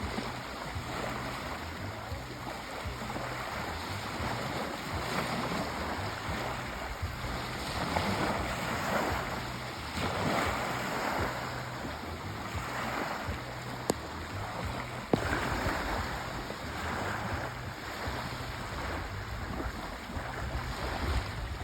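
Sea waves washing in and drawing back, the surf rising and falling every few seconds, with a low rumble beneath. Two sharp clicks sound about a second apart past the middle.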